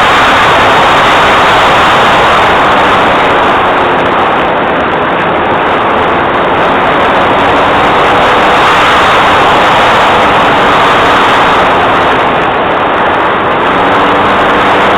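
Loud, steady drone of a Cessna 182's piston engine and propeller in flight, heard from on board, with a faint engine hum under the rush of noise.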